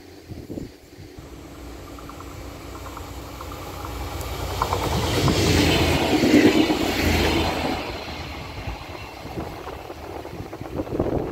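A NordWestBahn regional multiple-unit train passing at close range: the rumble of wheels and running gear grows louder to a peak about six seconds in as the train goes by, then fades as it pulls away.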